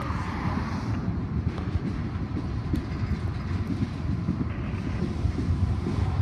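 Freight train of tank cars and covered hoppers rolling past below, a steady low rumble mixed with wind on the microphone.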